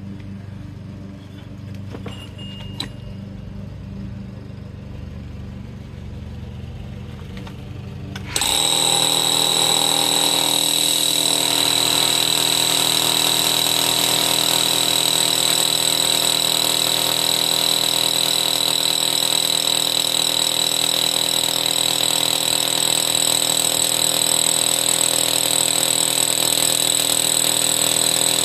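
Bosch rotary hammer drill turning a 2 5/8-inch core bit into a brick wall. After about eight seconds of low steady hum it starts suddenly, then runs steadily and loud with a high whine.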